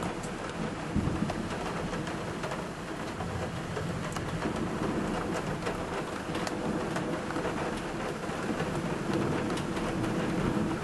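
Heavy rain pouring steadily in a thunderstorm, with many sharp taps of drops striking a window pane and a low thunder rumble swelling near the end.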